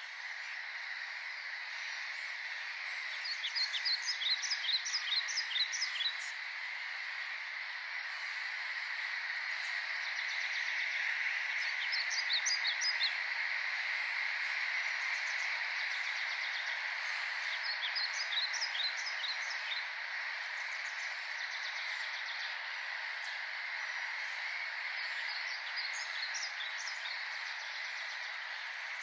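A dense, steady outdoor chorus of many calling animals, most likely birds, runs throughout. Over it, a songbird sings short, quick phrases of high notes several times.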